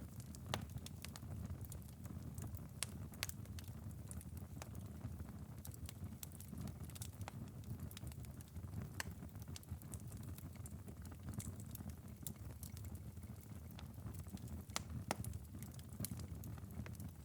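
Wood fire burned down to a bed of glowing embers, crackling and popping now and then over a soft steady low rumble.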